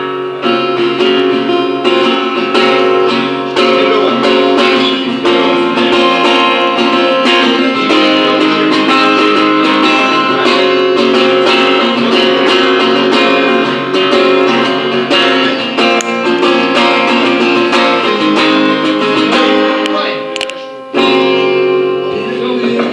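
Guitar playing an instrumental introduction: chords strummed and picked in a steady rhythm, with a short break about three quarters of the way through before it carries on.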